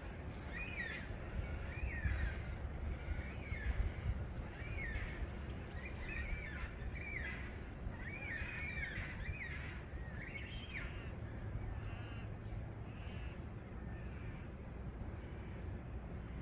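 Birds calling from the riverbank: a string of short, repeated, curving calls that thin out and fade after about eleven seconds. A low steady rumble runs underneath.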